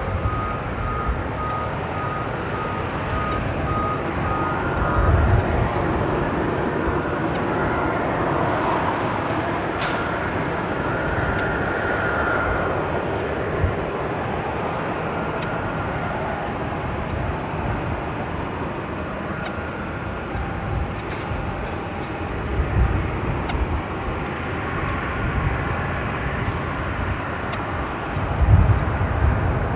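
Jet airliner engines running at an airport: a steady rushing noise with a faint high whine, swelling in low rumbles near the end.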